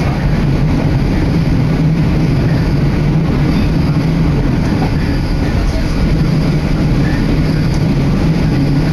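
Steady rumble of a moving train heard from inside the carriage, with air rushing in at an open window.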